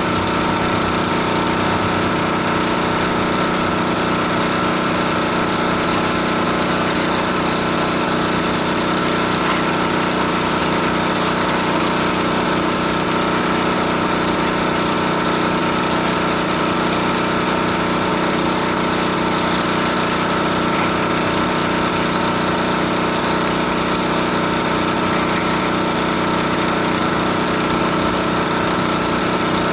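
Pressure washer's gas engine running steadily at a constant speed.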